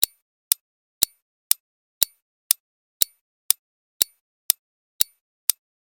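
Quiz countdown timer ticking, a sharp click about twice a second, marking off the seconds left to answer.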